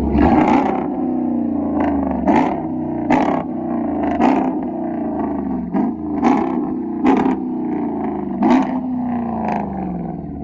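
Car engine being revved in repeated sharp throttle blips, about nine in all. Each blip shoots the revs up and lets them fall back.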